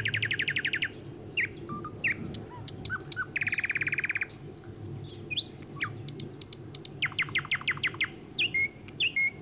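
Small birds chirping and trilling: rapid, evenly pulsed trills near the start, around the middle and about seven seconds in, with scattered short whistled chirps and slurred notes between.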